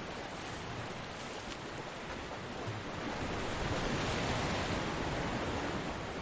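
Ocean waves breaking on a beach: a steady wash of surf that swells to a louder crash about four seconds in and then eases back.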